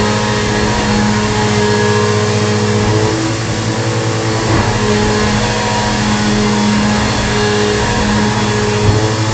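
Bissell PowerForce Bagless upright vacuum cleaner running steadily: a constant motor hum over a loud rush of air. The pitch of the hum shifts slightly about three seconds in.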